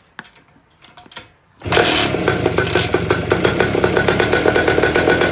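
1973 Harley-Davidson Aermacchi motorcycle engine cold-started with the choke on: a few faint clicks, then about a second and a half in it catches and runs at a fast, even beat.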